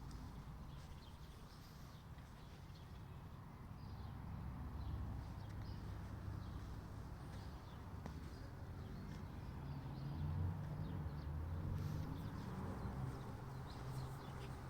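Quiet outdoor countryside ambience: a steady low rumble with scattered faint bird chirps.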